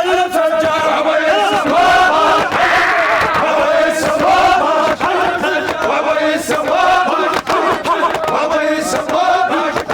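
A crowd of men chanting together in the Iraqi hosa style, many voices overlapping in a loud, steady group chant.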